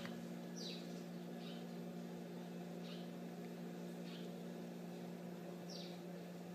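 A steady low hum throughout, with about six short, faint, high chirps falling in pitch, scattered a second or so apart, like a small bird calling in the background.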